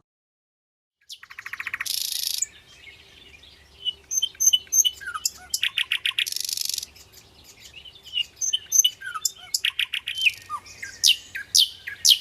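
Nightingale singing: a string of varied phrases starting about a second in, with rapid repeated notes, buzzy rattles and quick rising and falling whistles, and short pauses between phrases.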